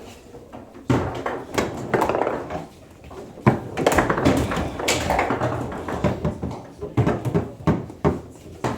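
Foosball table in play: the ball being struck by the figures and bouncing off the table, with the rods clacking, in a rapid run of sharp knocks that starts about a second in.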